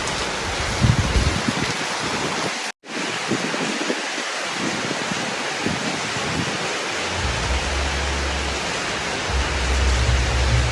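Heavy rain pouring steadily, broken by a split second of silence near three seconds in. A low rumble joins the rain about seven seconds in.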